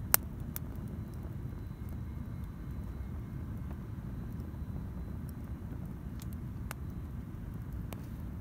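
Campfire burning with a steady low rumble and a few sharp crackling pops of burning wood, the loudest just at the start and a cluster near the end.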